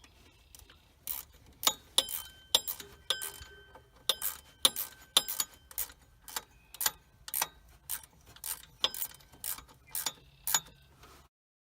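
Sharp metallic clicks with a short ring, about two a second at uneven spacing, from hand tools working on the truck's alternator mounting. The sound cuts off abruptly near the end.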